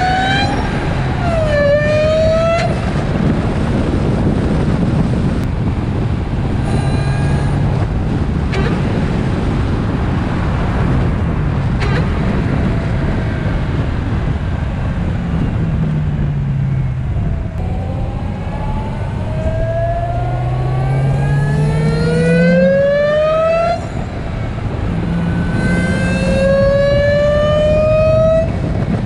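Dodge Challenger SRT Hellcat's supercharged V8 pulling through the gears with a Bwoody intake fitted. The supercharger whine rises in pitch on each pull and drops back at each shift, with pulls near the start and twice in the second half.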